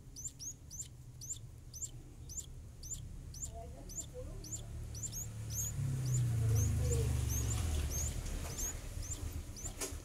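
A small bird chirping steadily: short, thin, high-pitched chirps that drop in pitch, about three a second. A low rumble swells about six seconds in and is the loudest part.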